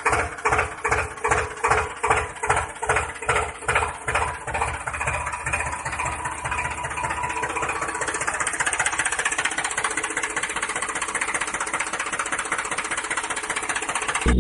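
Tractor-style engine chugging in slow, even beats about twice a second, which quicken and merge into a steady run after about five seconds.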